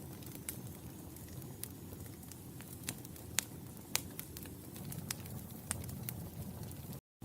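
Wood fire crackling in a fireplace: a low steady rumble of flames with irregular sharp pops and snaps, the loudest two a little before and at about the middle. The sound drops out completely for a moment just before the end.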